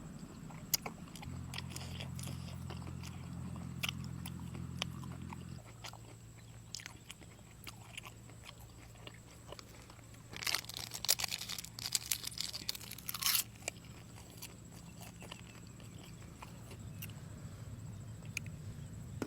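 Close-up mouth sounds of someone chewing soy-sauce-marinated seafood, with scattered wet clicks and a dense stretch of crackling crunches around the middle. A steady low hum runs underneath.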